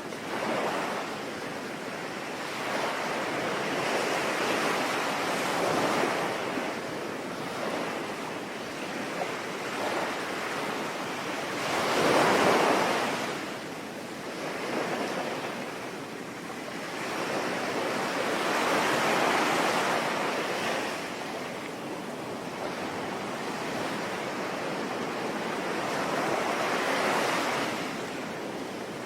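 Sea waves washing onto a shore in slow swells that rise and fall every few seconds, the biggest about twelve seconds in, over a steady hiss of falling rain.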